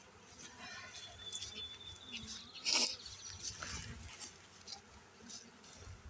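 Scattered knocks and rustles from handling a wooden hive box, with one loud sharp scrape or knock about three seconds in, and honeybees buzzing faintly.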